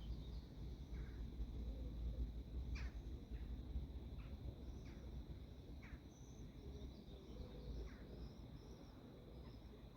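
Wind rumbling on the microphone, with scattered short, falling bird chirps about once a second.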